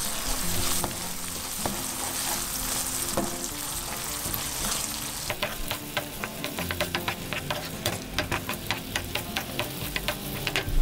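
Quinoa, onion and garlic in sesame oil sizzling in a frying pan while a wooden spatula stirs it. From about halfway through, the spatula scraping and tapping against the pan makes quick clicks, about four a second.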